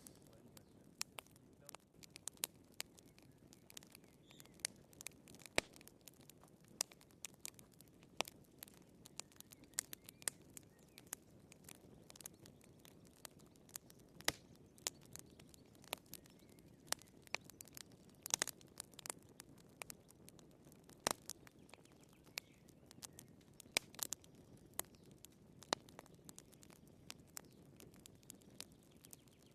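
Wood fire burning in a fireplace, crackling: irregular sharp pops and snaps of the firewood, several a second, over a low steady hiss, with a few louder snaps now and then.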